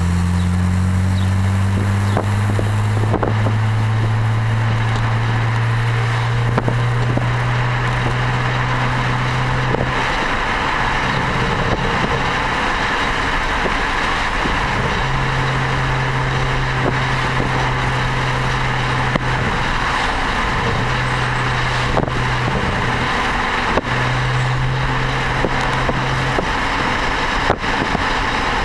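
BMW 335i's turbocharged inline-six through an Eisenmann Race exhaust, cruising: the exhaust note rises slowly in pitch over the first ten seconds as the car gains speed, then settles into a steady drone that fades in and out. Wind and tyre noise run underneath.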